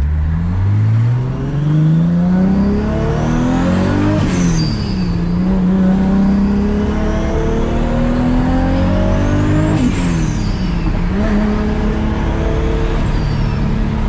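Toyota Supra's engine pulling through the gears under acceleration: revs climb for about four seconds, fall at a gear change, climb again, fall at a second change, then hold steady. No whine or clunk comes from the freshly replaced differential.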